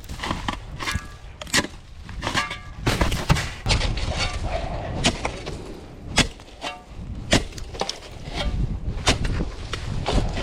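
Irregular sharp knocks and crunches, roughly one a second, of a snow tool breaking up ice-laden packed snow, over a low wind rumble on the microphone.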